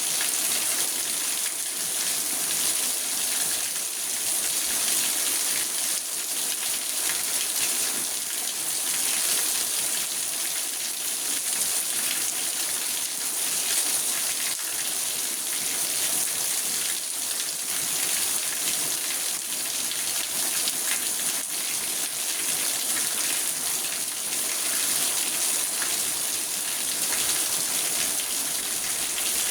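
Rain falling steadily on a car's roof and windows, heard from inside the car: a dense, even patter with no let-up.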